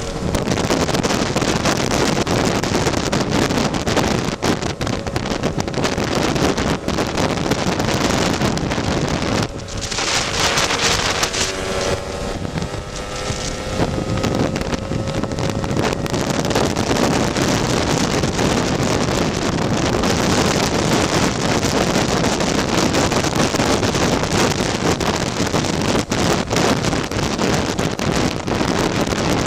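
Heavy wind noise on the microphone of a moving tuned Lambretta scooter, its two-stroke engine running under the wind; a faint rising engine note shows through about twelve seconds in.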